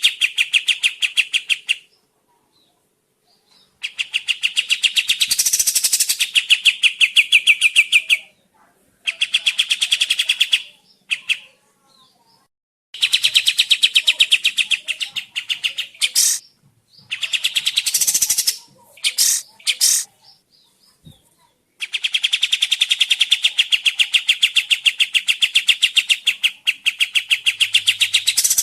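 Kapas tembak songbird singing in a fast, rattling trill of rapidly repeated notes, in bouts several seconds long with short pauses, and a few short sharp calls between the bouts near the middle.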